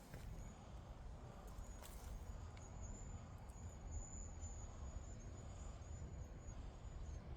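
An insect trilling high and thin in a chain of short broken pulses that stops near the end, over a low rumble, with a couple of light clicks.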